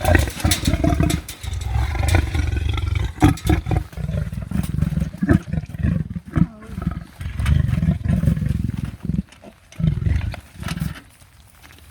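Leopard growling, grumpy and impatient at feeding time: deep, rough growls in repeated bouts that die away near the end.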